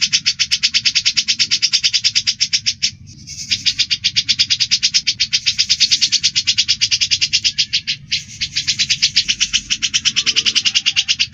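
Cucak jenggot (grey-cheeked bulbul) and Eurasian tree sparrow calling at each other in a fight: a fast, evenly spaced run of sharp chirps that breaks off briefly about three seconds in and again near eight seconds.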